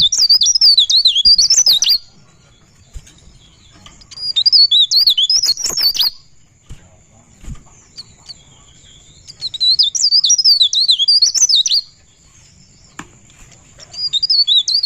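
Pare-pare bird singing in rapid, high warbling phrases of about two seconds each, the notes quickly rising and falling. There are three phrases with pauses of two to three seconds between them, and a fourth starts near the end. A faint steady high tone sounds in the gaps.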